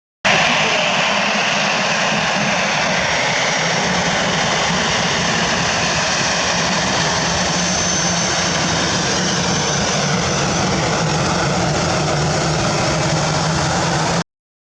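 Jet airliner's engines running loud and steady as it passes the runway, with a high whine over a low rumble; the sound cuts in and out abruptly.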